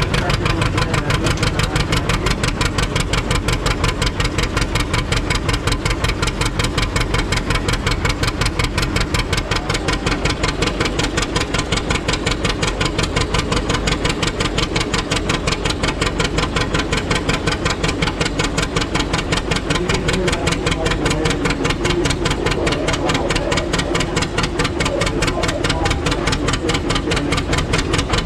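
Antique farm tractor engine running steadily, its exhaust beating in a rapid, even rhythm.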